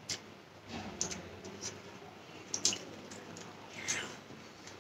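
A person chewing food close to the microphone: soft wet mouth sounds with scattered small clicks and smacks.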